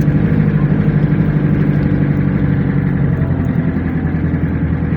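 Truck engine running steadily with a low, even hum and fast regular pulsing.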